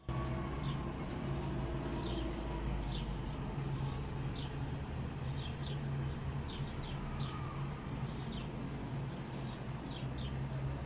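Small birds chirping in short, high notes, about one a second and sometimes two close together, over a steady low hum.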